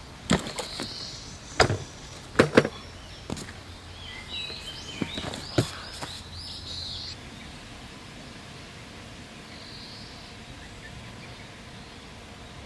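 A few sharp knocks in the first half, and a bird singing a short, twittering phrase in the middle, over a steady outdoor background.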